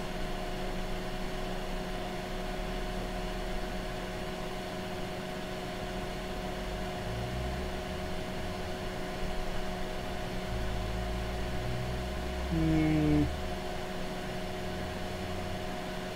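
Steady electrical hum and fan noise from running bench test equipment, with a shifting low rumble underneath. About twelve and a half seconds in, a short pitched sound of about half a second stands out above it.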